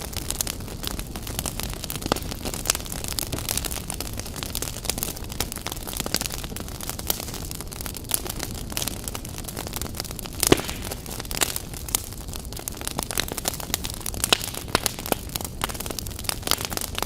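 Wood fire in a fireplace crackling and popping, with a steady low rumble of flame under a constant scatter of sharp snaps and one louder pop about ten seconds in.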